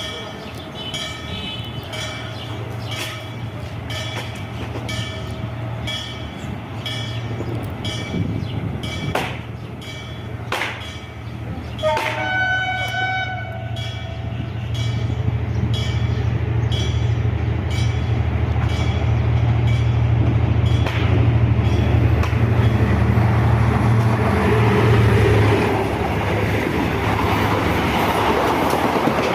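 Diesel locomotive passing: a steady low engine drone, with short horn-like tones through the first stretch and a horn blast about twelve seconds in. The rumble of the train and its wheels on the rails then grows louder.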